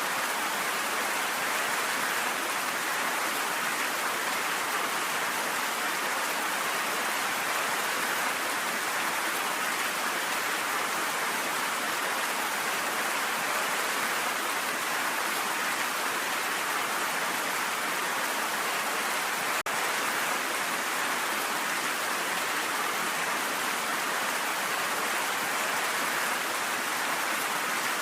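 Steady, even rain with no thunder, broken by a momentary dropout about two-thirds of the way through.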